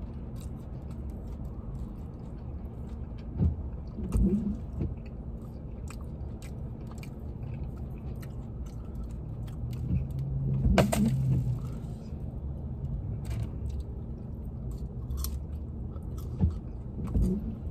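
A person chewing a fried chicken sandwich, with small wet mouth clicks and smacks throughout and a louder burst of sound about eleven seconds in, over a steady low hum inside the car.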